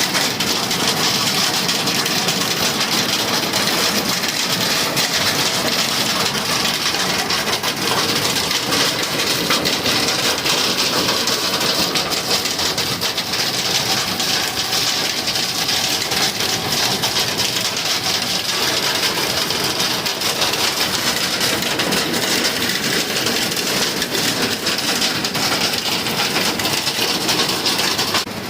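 Heavy hail and rain pelting down, a dense, steady clatter of countless small impacts with no let-up.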